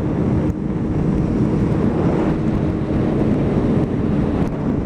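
Motorcycle engine running at a steady speed, with wind rushing over the helmet microphone.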